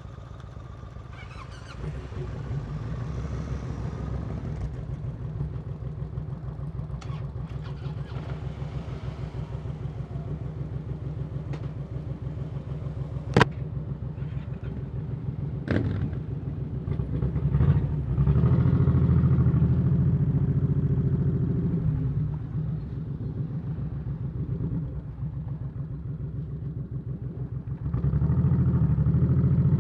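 Motorcycle engine running with a steady low throb, two sharp clicks in the middle, and the engine growing louder a little past halfway and again near the end.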